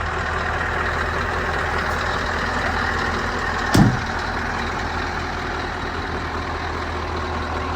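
Scania R 500 truck's V8 diesel engine idling steadily, with a single thump about four seconds in.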